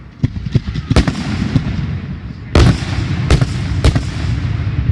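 Fireworks going off: a run of small cracks in the first second and a half, then three heavy bangs about two and a half, three and a quarter and nearly four seconds in, the first of them the loudest, over a steady low rumble.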